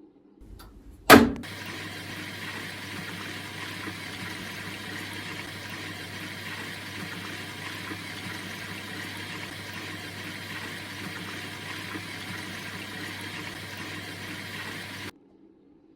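Candy washing machine taking in water: a loud click, then a steady rush of water with a low hum, which stops abruptly about fifteen seconds in.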